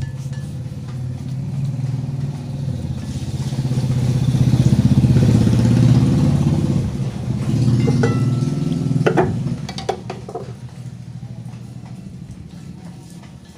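Motorcycle engine running, growing louder to a peak about halfway through and then fading away.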